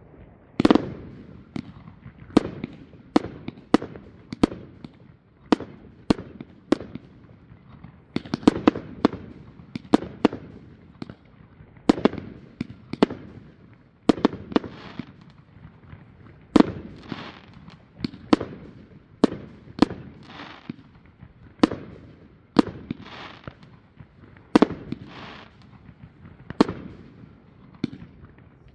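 Fireworks going off: a steady series of sharp bangs, one every second or so at irregular spacing, each with an echoing tail, and now and then a second-long hiss between them.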